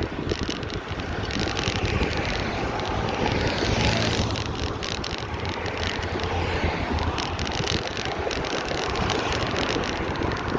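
Bicycle ride recorded from the bike: steady wind on the microphone and tyre noise, with frequent small rattles and clicks from the bike. A low hum swells around the middle.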